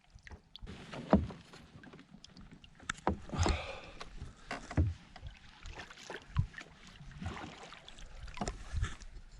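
Scattered knocks, bumps and rustles against a plastic fishing kayak's hull as a landed fish is handled aboard, with a brief rush of noise about three and a half seconds in.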